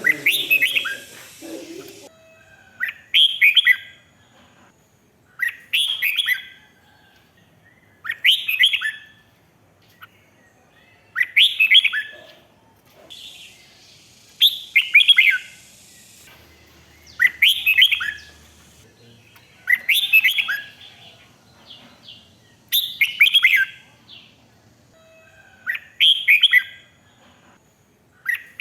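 Red-whiskered bulbul singing: a short, bright warbled phrase about a second long, repeated roughly every three seconds.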